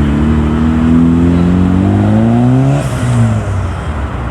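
Modified Japanese car engine accelerating hard, its note rising steadily for almost three seconds, then lifting off with a short hiss as the pitch drops away.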